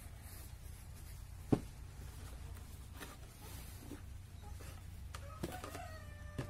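Steady low hum with one sharp knock of wood about one and a half seconds in, a few faint taps, then clicks and a short squeak near the end, from handling pallet-wood parts of a beehive base.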